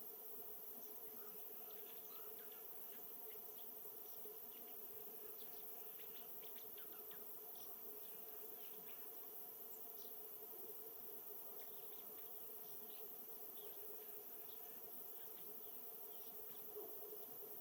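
Faint, steady outdoor ambience: a constant low hum with scattered short, high chirps and ticks from small birds.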